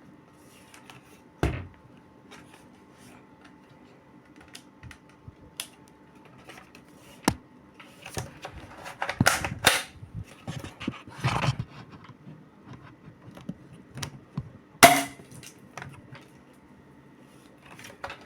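Cheap spring-powered airsoft M4 being handled and fired: several sharp snaps a few seconds apart, the loudest near the end, with a stretch of clattering plastic handling noise in the middle.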